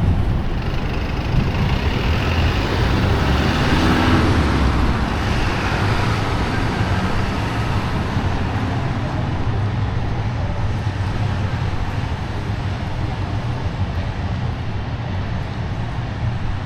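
Traffic on a wet city street: a steady low rumble with a vehicle passing, its tyre hiss swelling about four seconds in and then slowly fading.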